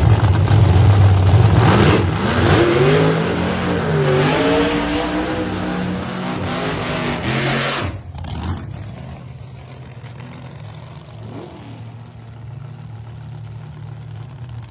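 A gasser drag car's engine being revved, its pitch rising and falling several times. About eight seconds in the sound drops abruptly to a quieter, steady idle.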